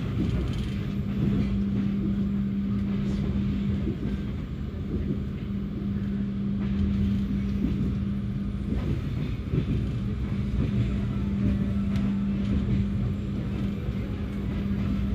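Passenger train running: a steady low rumble of wheels on rails with a steady hum and a few faint clicks.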